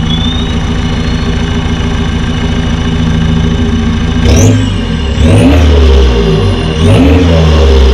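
BMW E46 320d's four-cylinder turbodiesel, straight-piped, running steadily at first. From about four seconds in it revs hard in repeated surges, with a turbo whistle that rises and falls with each one.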